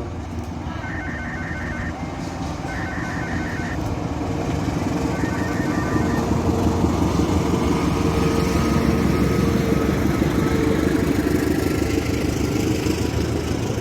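Railway level-crossing warning bell ringing in fast repeated two-note strokes, in three short bursts over the first six seconds. Under it a steady rumble grows louder and stays loud through the second half.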